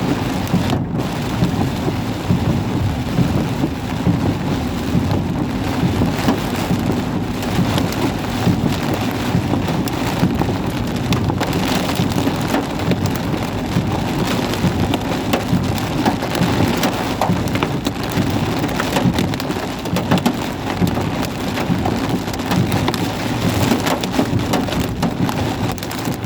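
Heavy rain falling steadily in a storm, a dense, even downpour with many sharp drop hits.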